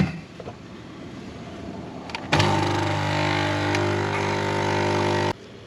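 A small electric motor or pump hums loudly and steadily for about three seconds, starting abruptly a couple of seconds in and cutting off just as abruptly.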